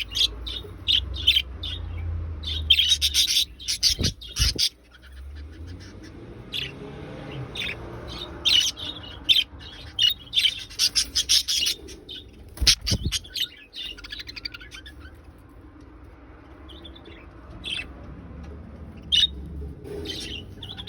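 Budgerigars chirping and warbling in quick bursts of chatter, with two dull thumps partway through.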